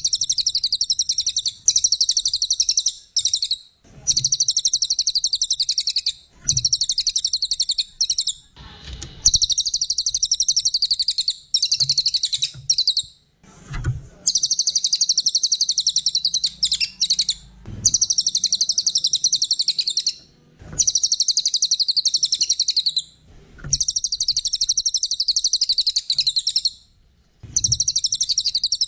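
Small songbird singing a fast, very high-pitched buzzing trill in repeated phrases of about two to three seconds, with short pauses between them. A few faint low knocks fall in some of the pauses.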